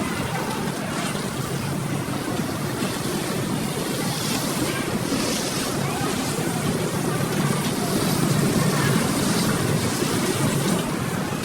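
Steady, dense din of a busy children's play area, many voices and general noise blended together with no single sound standing out.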